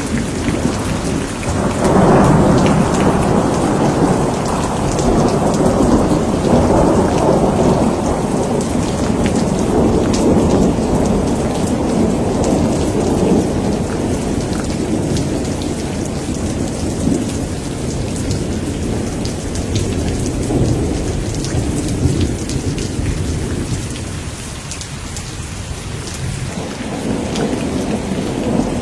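Steady heavy rain with a long rolling thunder rumble that swells about two seconds in and slowly dies away. Another rumble begins to build near the end.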